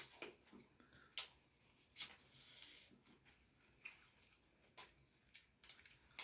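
Faint eating sounds: scattered small mouth clicks and soft smacks, about eight spread over a few seconds, with a brief soft hiss near the middle.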